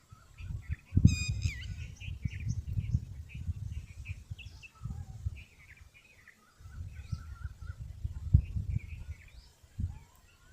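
Low gusty rumbling, like wind buffeting the microphone, comes and goes in spells over constant small chirps of birds. About a second in, one sharp, bright bird call stands out.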